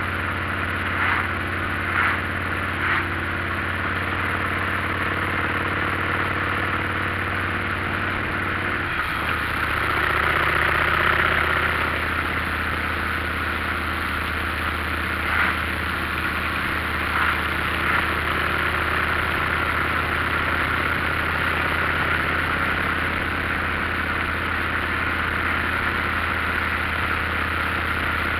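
Motorcycle engine running steadily, its note changing about nine seconds in, with a few short, sharper sounds over it near the start and in the middle.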